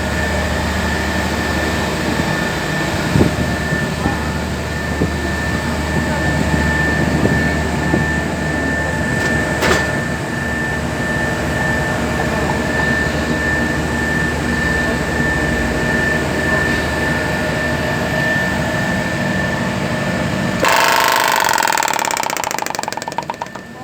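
Carrier 06EF semi-hermetic reciprocating compressor on a 30GTN air-cooled chiller running steadily with a low hum and a thin steady whine. About 21 seconds in the sound changes abruptly to a louder hiss that then fades.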